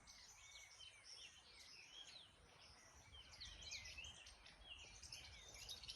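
Faint birdsong: many short chirps and whistles from several birds, over a quiet outdoor background.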